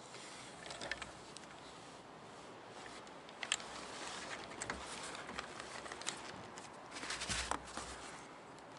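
Scattered light clicks and scraping of small plastic fuel-pump parts being handled and fitted together by hand, as the fuel sock (strainer) is pushed onto the pump, with a short cluster of clicks near the end.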